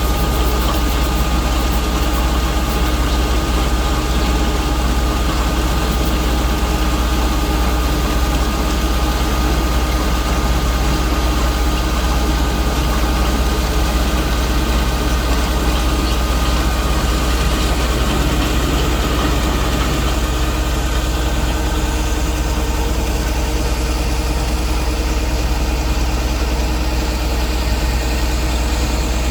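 Rice combine harvester's engine running steadily, a deep unbroken drone with a faint steady whine above it.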